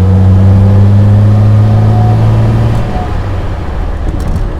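Mercedes-Benz 300 SL Roadster's 3.0-litre straight-six engine running under way, a loud steady drone that rises slightly in pitch and then eases off about three seconds in.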